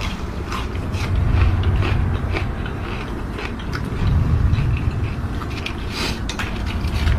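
Close-up chewing and biting, with irregular crunches and clicks, over a low rumble that swells and fades.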